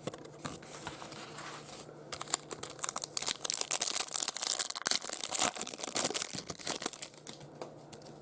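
Crinkly plastic-foil wrapper of a baseball card pack being torn open and crumpled. A dense run of crackling builds about two seconds in and dies down about seven seconds in, over a faint steady hum.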